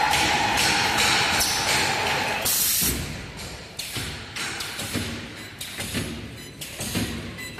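Multi-spot welding machine running: a steady whine, then a brief loud hiss about two and a half seconds in, followed by a series of mechanical knocks and clanks roughly twice a second.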